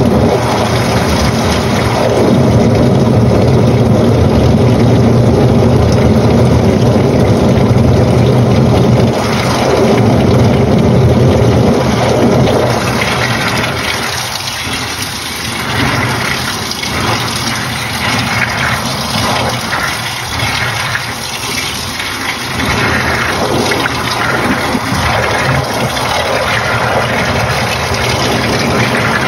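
Panasonic NA-FA80H8 washing machine running: a steady low motor hum with water churning in the tub, turning more uneven, with surges of water, about halfway through.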